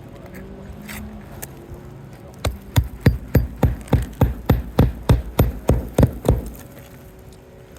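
Hammer driving roofing nails into an asphalt shingle: a run of about fourteen sharp strikes at roughly three a second, starting a couple of seconds in and stopping about a second and a half before the end.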